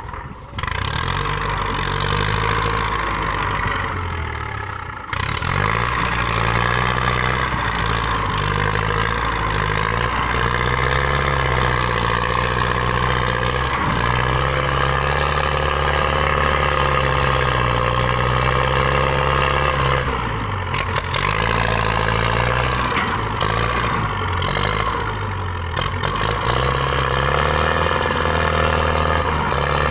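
Tractor diesel engine running steadily, its pitch rising and falling, with brief dips about five seconds in and about twenty seconds in.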